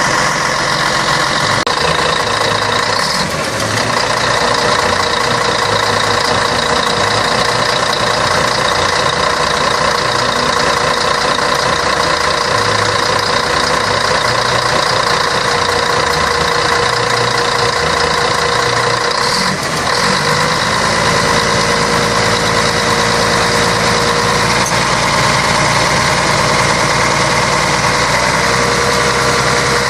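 Scania K113 bus's six-cylinder diesel engine running steadily, with two brief dips in level about 3 and 20 seconds in.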